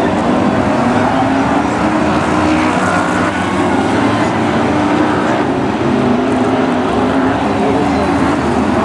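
Several BriscaF1 stock cars' V8 engines running hard together, their pitches overlapping and wavering up and down as they race.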